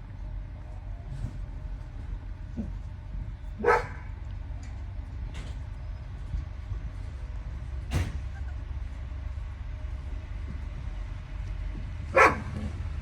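A dog gives two short barks, one about four seconds in and one near the end, over a steady low rumble, with a sharp click in between.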